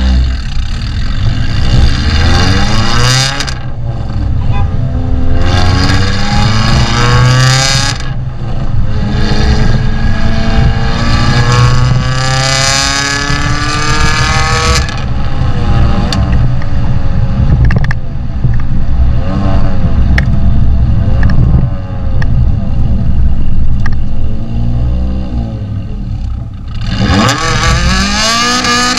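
Renault Clio 197's 2.0-litre four-cylinder engine heard through a Milltek de-cat exhaust, accelerating through the gears: the note climbs steadily over several seconds and drops back three times in the first half, runs unevenly for a while, then climbs again near the end.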